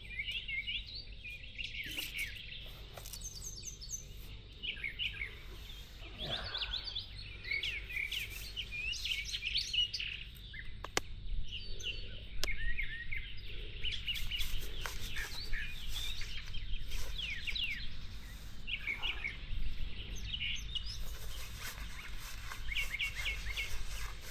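Wild birds chirping and calling over and over, short high chirps throughout, with two sharp clicks about halfway through.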